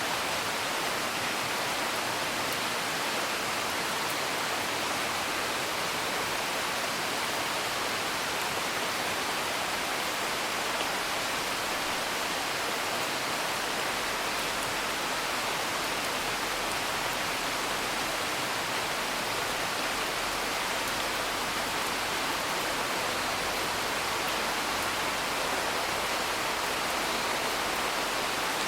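Steady rain, an even rushing hiss that does not change, with faint scattered crackles of a wood fire.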